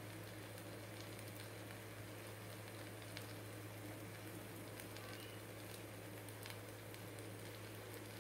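Sliced potatoes frying in oil in a pan, sizzling faintly with scattered small crackles over a steady low hum.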